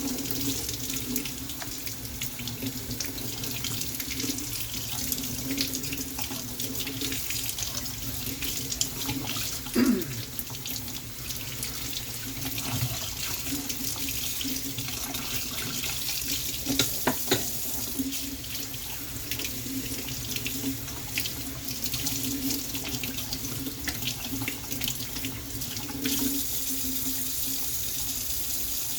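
Water running steadily from a tap, with a couple of brief knocks about ten seconds in and again around seventeen seconds.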